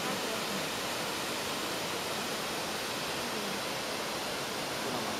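Nachi Falls, a 133-metre single-drop waterfall, with its water falling and crashing in a steady, even rush of noise.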